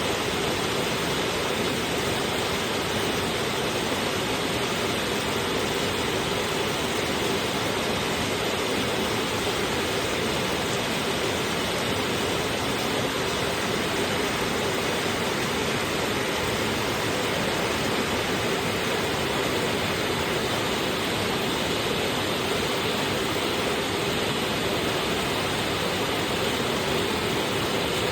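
Heavy rain pouring steadily, an even hiss with no breaks or changes.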